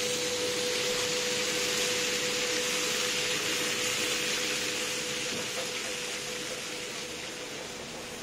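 Water-fried buns sizzling steadily in a large flat pan, a loud hiss that slowly fades, with a steady hum underneath.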